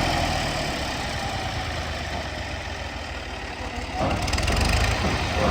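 Massey Ferguson 385 tractor's diesel engine running steadily while driving a mustard thresher. It grows louder about four seconds in.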